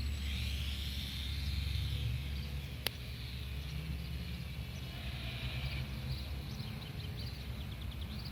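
Wind rumbling on the microphone outdoors, with a soft hiss that swells and fades twice, one sharp click about three seconds in, and a quick run of high chirps near the end.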